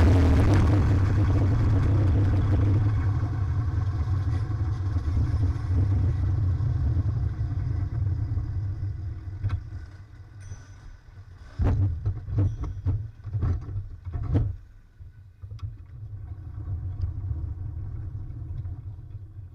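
Low, muffled vehicle rumble that dies away, followed by a run of sharp knocks and clatters, then a quieter rumble that fades out near the end.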